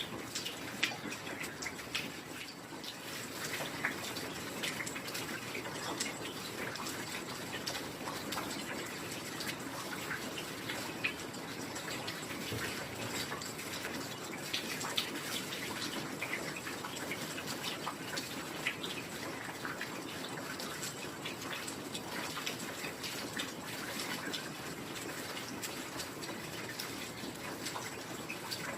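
Heavy rain falling steadily, with many individual drops ticking sharply through the rush.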